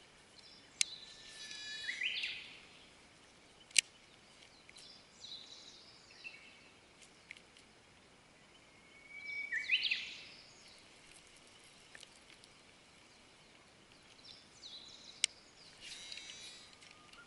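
Birds singing: two loud phrases, each a held whistle that breaks into a quick rising flourish, with softer chirps between. A few short sharp clicks cut through.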